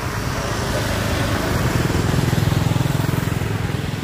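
A small motor vehicle engine running with a fast, even pulse, growing louder to a peak about two and a half seconds in and then easing off, as if passing close by.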